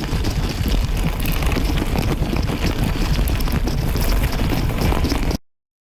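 Mountain bike riding over a rough, wet dirt trail: wind buffeting the camera microphone with a low rumble and constant rattling and knocking from the bike. The sound cuts off suddenly near the end.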